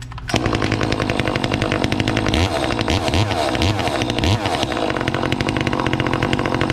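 Modified Echo CS-2511 two-stroke chainsaw, with an aftermarket-modified exhaust, advanced ignition timing and a re-tuned carburetor, throttled up from idle just after the start and held at full revs. It drops back to idle just after the end.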